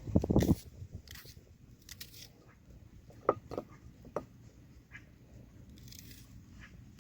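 Food-preparation handling noises: a brief clattering rustle at the start, then a few sharp clicks and light taps about three to four seconds in.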